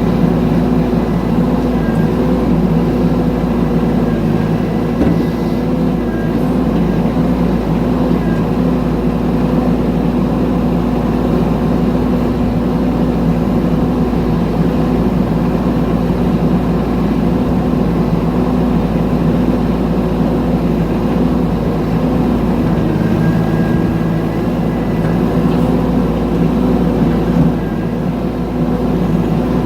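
Mini excavator engine running steadily at a constant speed, with faint higher tones coming and going over it.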